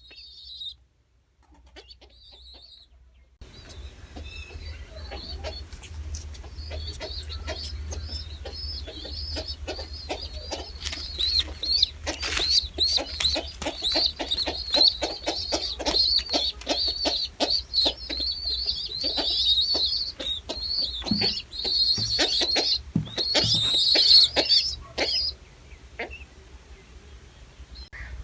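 Birds chirping: a dense, rapid run of short high-pitched chirps that starts a few seconds in and stops shortly before the end, over a low rumble.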